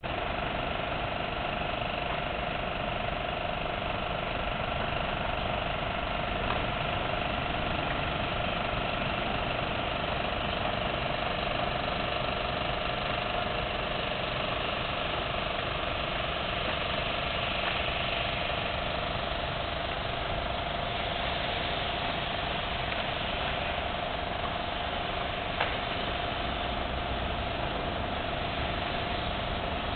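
A steady, unchanging engine-like drone with a constant hum, with no revving, and a single faint click about 26 seconds in.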